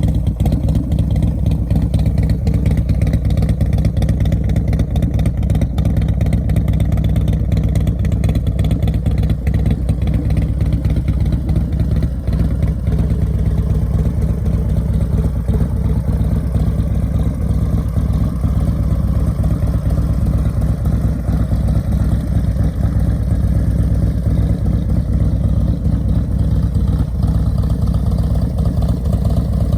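2016 Harley-Davidson Road Glide's stage 4 V-twin running through a D&D exhaust, loud and steady.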